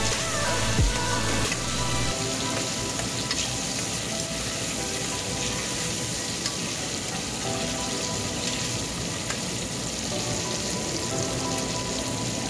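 Sliced onions and tomatoes sizzling steadily as they fry in oil in a stainless steel pot.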